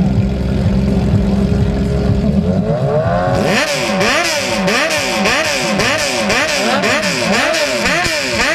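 Sport motorcycle engine running with a low steady note, then from about three seconds in revved again and again, its pitch sweeping up and down in quick repeated throttle blips.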